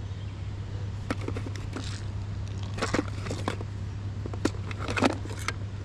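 Fishing tackle being handled: scattered small clicks and light rustles as a hook is picked out for changing, over a steady low hum.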